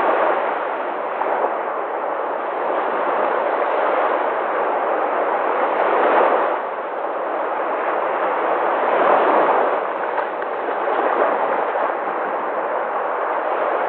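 Sea waves breaking on a shore: continuous surf noise that swells louder as waves break about six and nine seconds in.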